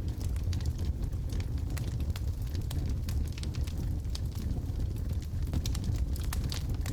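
Wood logs burning in a fireplace: frequent sharp crackles and pops over a steady low rumble of the fire.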